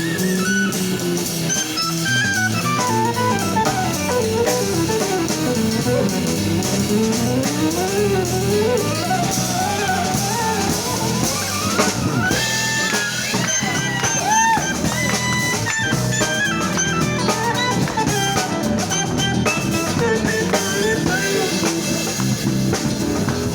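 Small band of electric guitar, electric bass, EWI (electronic wind instrument) and drum kit playing an instrumental passage without vocals, a lead line sliding up and down in pitch over bass and drums.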